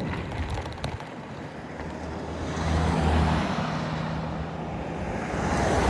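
Wind rushing over the microphone while riding an e-bike along a road, with a steady low hum from a vehicle or motor from about two and a half to five seconds in.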